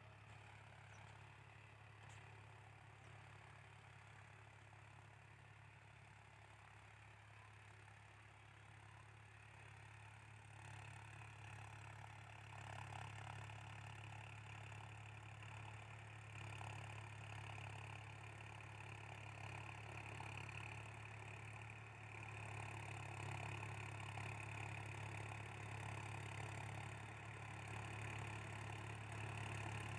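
Swaraj 960 tractor's diesel engine running steadily, faint at first and growing louder from about twelve seconds in.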